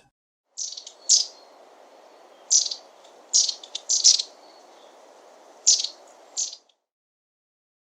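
Long-tailed tit calling: about eight short, high calls coming in small groups, over a faint steady background hiss.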